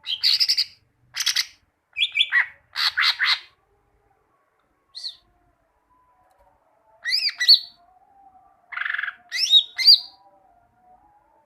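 Cucak ijo (greater green leafbird) singing in short, loud phrases of rapid chirps, then arching whistled notes and a buzzy call after a pause in the middle.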